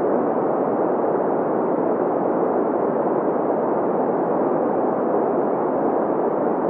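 Steady synthetic green noise: an even, unchanging hiss centred in the middle of the range, with little deep bass and no high treble.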